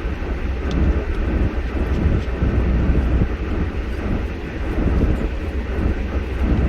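Vehicle driving on snow-covered streets, heard from inside the cab: a steady low rumble of engine and tyres.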